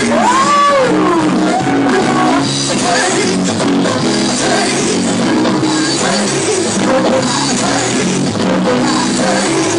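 Live church band music, with guitar and drums under a voice singing and gliding between notes.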